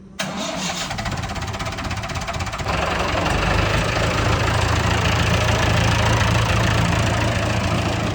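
David Brown 990 Selectamatic tractor engine running. It comes in suddenly just after the start, then rises louder as it is revved up about two and a half seconds in, and holds there.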